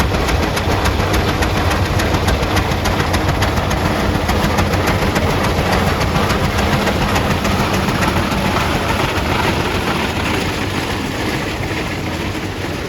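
Antique tractor engine running with a steady, rapid firing beat, growing a little fainter toward the end.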